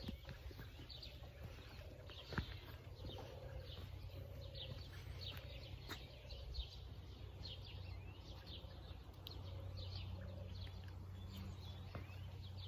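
Songbirds chirping: many short, high chirps repeating throughout over a low, steady background rumble.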